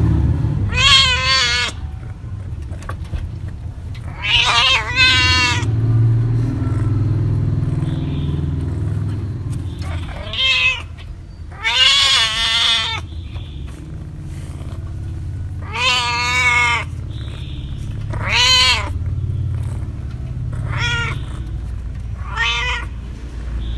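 A cat meowing repeatedly, about nine separate drawn-out meows a few seconds apart, some higher and shorter than others. A steady low rumble runs underneath.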